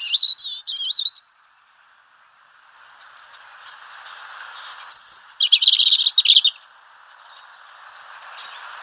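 Small songbirds chirping: a quick run of short chirps at the start, then a thin high note and a rapid trill just past halfway, over a faint steady hiss.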